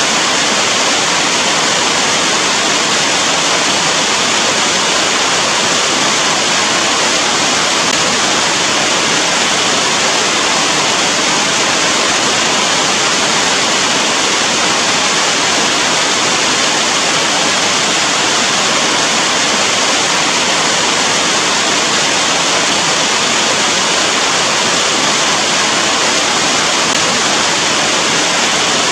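Steady, dense rainfall: an even, unbroken hiss of rain with no separate drops or changes standing out.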